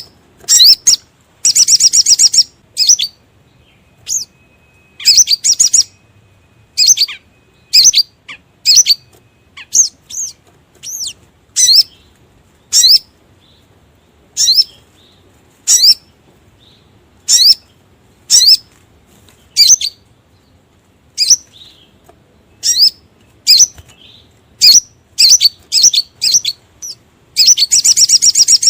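Sogon (sogok ontong) bird calls played as a lure recording: loud, sharp, high chirps repeated roughly once a second, with a fast buzzing trill about two seconds in and another near the end.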